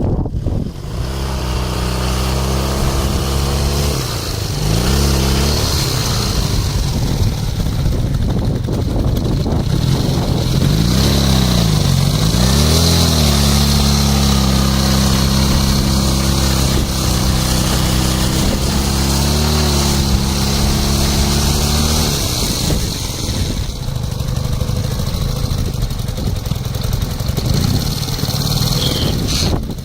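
Ural motorcycle's flat-twin engine running, revved up and back down a few times and otherwise held at a steady speed.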